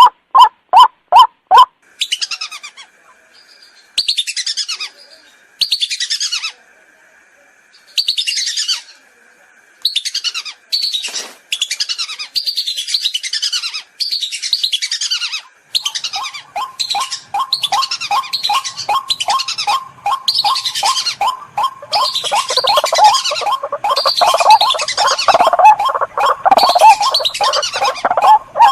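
Lure-call recording of white-breasted waterhens and whistling ducks. The waterhen's low 'kwak' call repeats about three times a second at the start and comes back from about halfway, growing louder. Over it the ducks give high, falling whistled notes, spaced at first and then almost continuous.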